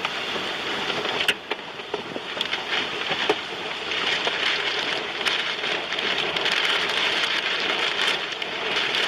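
Wind-driven rain pelting a car, a dense steady rush with scattered sharp taps against the body.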